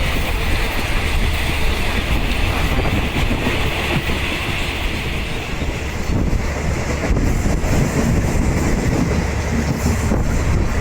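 Passenger train running on the rails: a steady rumble and rattle of the rail car and its wheels on the track, with a hiss that eases off a little past halfway.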